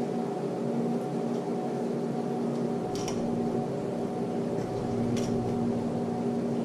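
A machine tool's electric motor running at a steady speed with an even hum, with a few faint, short metallic clicks.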